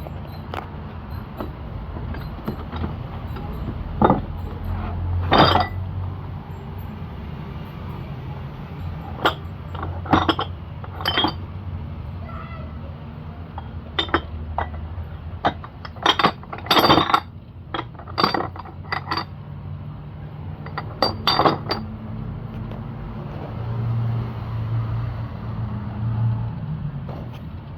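Metal parts of a York 20 kg dumbbell set clinking and knocking together as they are handled, in a dozen or so irregular strikes over a steady low hum.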